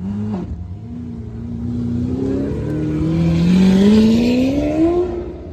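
A car's engine accelerating as it drives past, its pitch climbing steadily and loudest about four seconds in before fading away.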